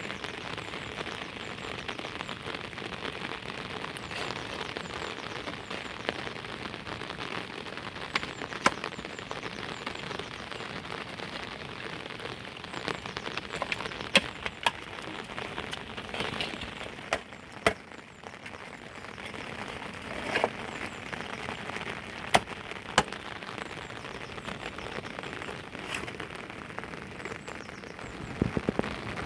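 Steady heavy rain, with a few sharp taps of drops standing out now and then.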